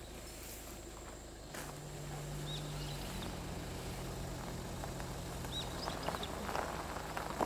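Mountain forest ambience: a small bird gives short high chirps twice, over a low steady hum that comes in about a second and a half in. Near the end, a dense pattering of raindrops builds up.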